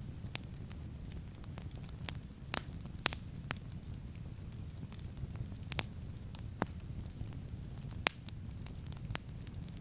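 Wood campfire crackling, with sharp pops at irregular intervals, the loudest about three seconds and eight seconds in, over a steady low rumble.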